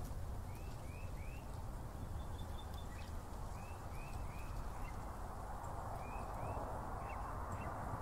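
Small bird chirping in short runs of three quick rising-and-falling notes, repeated a few times, over a steady low rumble of road traffic on a nearby highway that swells as a vehicle passes near the end.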